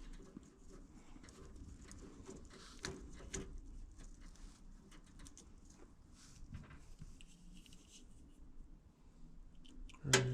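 Faint clicks and rustling as jumper wires and tools are handled, with a couple of sharper ticks about three seconds in.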